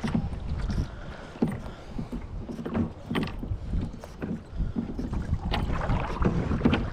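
Kayak paddle strokes dipping and splashing in the water, irregular and short, over a low rumbling wash.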